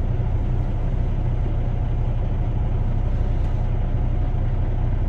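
Heavy truck's diesel engine running steadily at a low, even rumble, with no revving.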